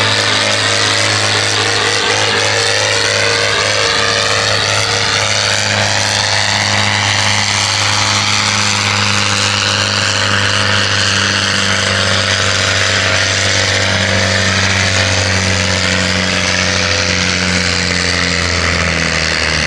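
Pulling tractor's engine running loud and steady at high revs, with a higher whine that slowly glides in pitch.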